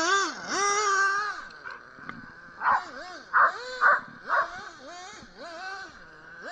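Surpass Hobbies brushless motor in a Redcat Hurricane XP 1/8-scale buggy running on 3S, its electric whine rising and falling in pitch over and over as the throttle is worked. Short bursts of noise come in between about a third of the way in and the middle.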